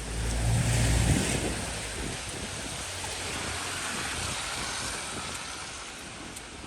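A vehicle passing on a wet street, its tyres hissing, loudest about a second in and then slowly fading away. There is a low rumble of wind on the microphone near the start.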